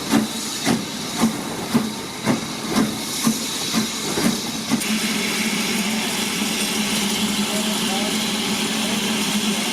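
Steam locomotive with a steady beat about twice a second that stops about five seconds in, giving way to a steady hiss of steam.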